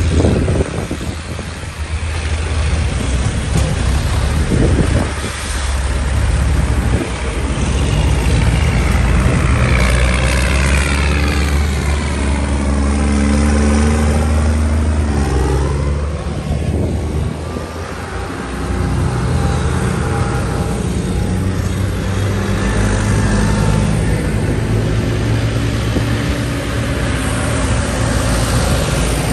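Vintage tractor engines running as tractors drive past on the road, one passing close about halfway through with its sound swelling and sweeping as it goes by.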